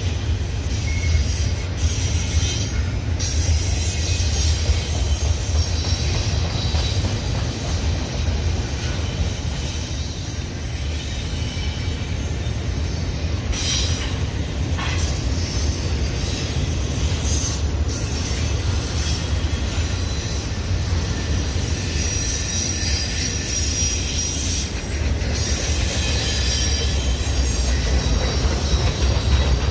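Union Pacific intermodal freight train rolling past: a steady low rumble of wheels on rail with scattered knocks, and a thin high wheel squeal from about seven to thirteen seconds in.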